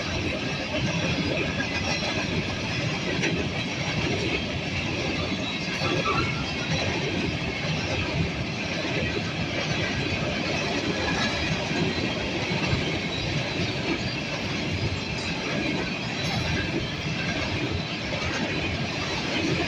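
Norfolk Southern grain train rolling past slowly and steadily, its steel wheels running on the rails in an even, unbroken noise.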